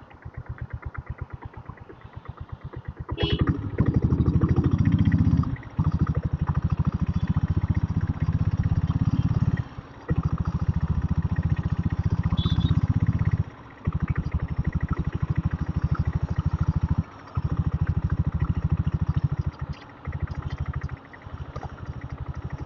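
Diesel Bullet motorcycle's single-cylinder diesel engine running under way, a fast, even chugging of firing pulses. It opens up loud about three seconds in and keeps going in long pulls, broken by short dips in level every three to four seconds.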